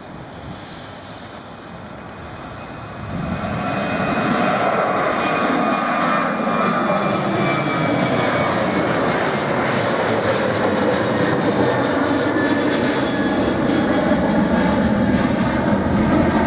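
Jet airliner's engines passing low overhead: the noise swells sharply about three seconds in and stays loud, with a whine that falls in pitch as it goes by.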